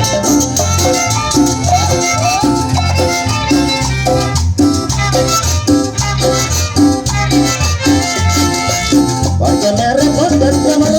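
A chanchona band playing upbeat Latin dance music, with a steady pulsing bass beat under a melody line.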